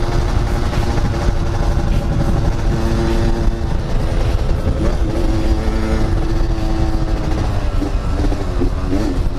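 Yamaha RX-King's two-stroke single-cylinder engine running steadily on the move, under a heavy low rumble. The engine pitch wavers up and down near the end as the throttle changes.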